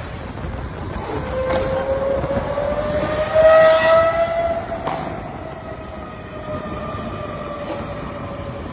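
Lamborghini engine running at high revs, its pitch climbing slowly to a peak about four seconds in, where it is loudest, then easing down.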